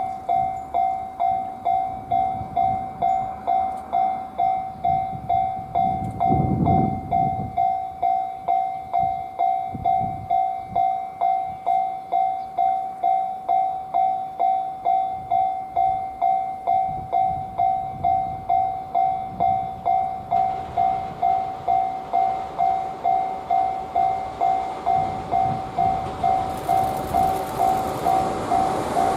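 Japanese level-crossing warning bell ringing steadily, about two strokes a second. From about two-thirds of the way in, the rumble of an approaching freight train, an EF210 electric locomotive hauling container wagons, grows louder under the bell.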